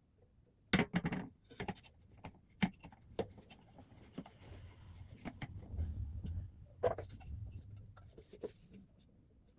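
Irregular light knocks and clicks of objects being handled and set down during household cleaning, with a low hum in the middle.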